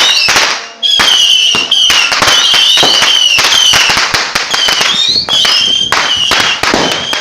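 Fireworks going off in a rapid, near-continuous barrage of sharp bangs and crackles, with repeated high whistles, some gliding in pitch, sounding between the bangs.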